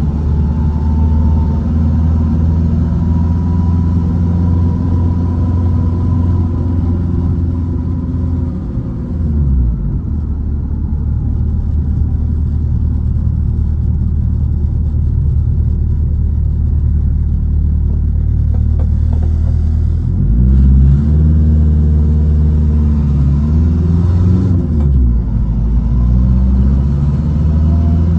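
1968 Volkswagen Baja Bug's air-cooled flat-four engine, heard from inside the car while driving. The engine note drops about nine seconds in as the car slows, then climbs and falls with gear changes around twenty and twenty-five seconds in.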